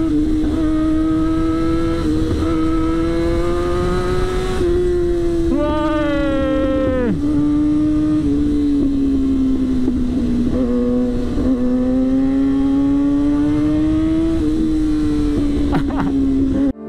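Yamaha R6's inline-four engine running at a steady high pitch while riding, the pitch drifting slowly up and down. About six seconds in, another engine briefly rises and falls in pitch.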